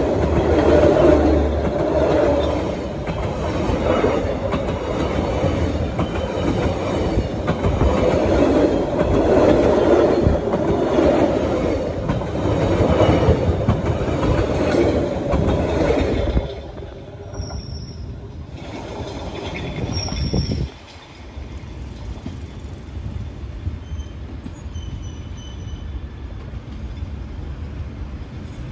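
Passenger train carriages rolling past close by, a loud rumble and clatter of wheels on rails. After a little over half the time the sound drops suddenly, leaving the quieter rumble of the train moving away.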